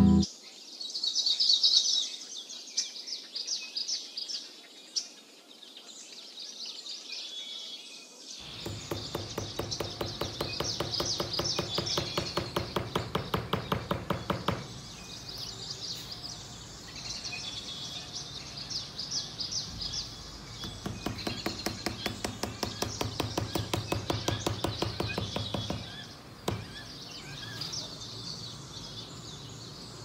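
Birds chirping throughout. A fast, regular mechanical pulsing joins them twice, each time for about six seconds.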